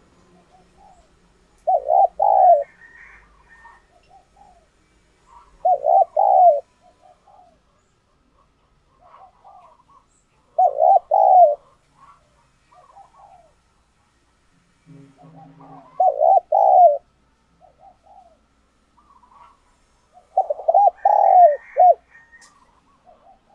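Spotted dove cooing: five loud coo phrases, each about a second long, every four to five seconds, with soft short notes between them.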